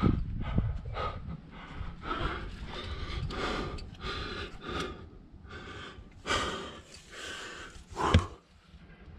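A climber breathing hard and fast in short gasps while straining up a rock chimney, with a sharp knock about eight seconds in.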